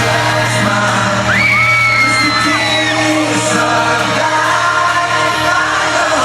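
Live pop music at an arena concert: a boy band singing over a loud, amplified backing track, with fans screaming and whooping. A high-pitched voice rises and holds for a second or so just after a second in.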